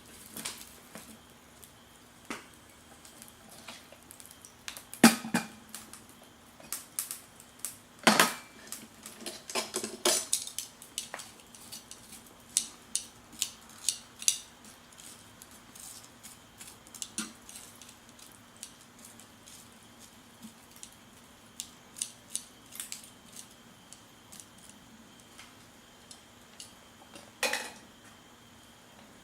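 Scattered clinks and knocks of cookware and utensils being handled, with the loudest knocks about five, eight and ten seconds in, over a faint steady hum.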